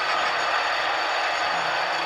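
HO scale Athearn Genesis Amtrak P42 model locomotive running, a steady mechanical hiss with a thin high whine.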